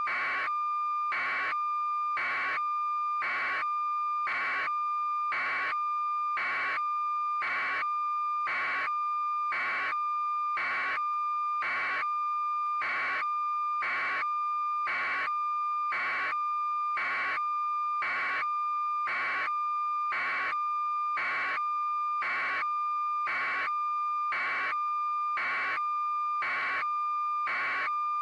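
A steady high electronic tone with a regular pulse about once a second, unchanging throughout, like an alarm or a beeper.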